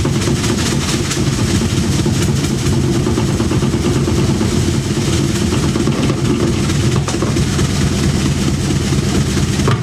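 Washing machine running a hard spin cycle, a loud steady mechanical hum and rattle as the drum shakes the machine hard enough to make it walk across the floor.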